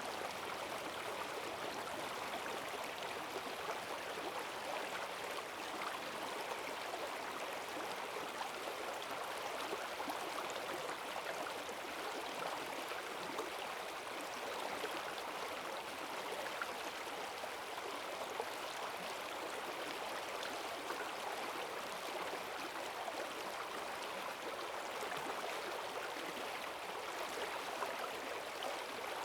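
Rain-swollen forest stream rushing over its bed, a steady, even splashing and gurgling of strong current.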